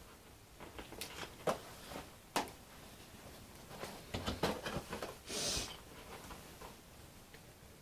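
Faint scattered clicks and taps of small parts being handled, with a short rustling hiss about five seconds in: hinges being worked into the balsa control surfaces of a model airplane.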